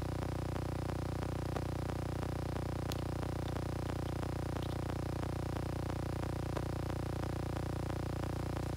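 A steady low hum with many faint small clicks throughout and a few sharper ticks.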